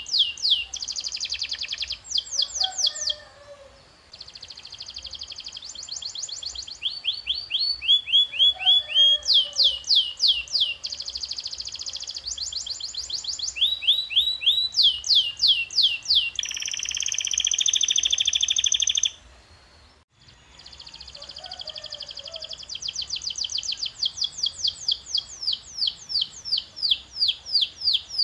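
Domestic canary singing: phrases of rapidly repeated falling notes and fast trills, one phrase after another, with two brief pauses, about 3.5 seconds in and near 20 seconds.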